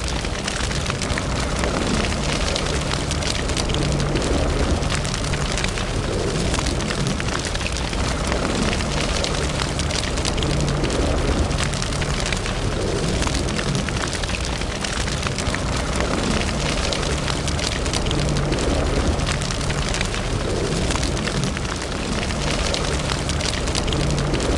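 Wood fire burning in a fireplace: a steady hiss and low rumble of flames, with many small crackles and pops throughout.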